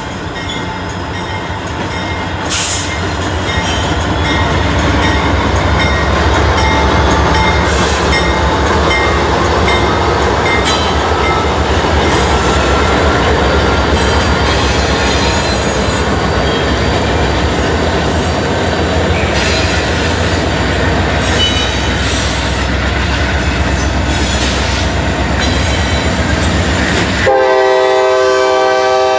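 Norfolk Southern freight train passing close by: the diesel engines of the C40-9W and SD70M locomotives running as they go past, then the freight cars' steel wheels rumbling and clanking on the rails. Near the end the low rumble drops away and a multi-note train horn sounds.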